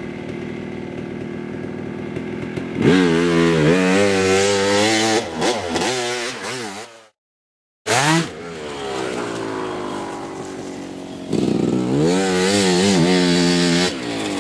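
Two-stroke dirt bike engine, running steadily at first, then revving hard up and down about three seconds in. The sound drops out completely for under a second around the middle, then comes back with its pitch falling away, and the bike revs hard again near the end.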